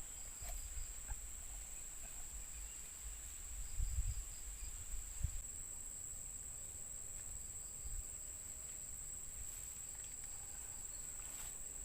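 Steady high-pitched insect chorus of crickets, with faint chirping above it and a few low rumbles about four and five seconds in.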